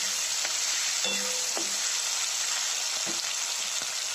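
Tomatoes, slit green chillies and garlic sizzling steadily in hot oil in a kadhai, stirred with a spatula that knocks and scrapes against the pan a few times.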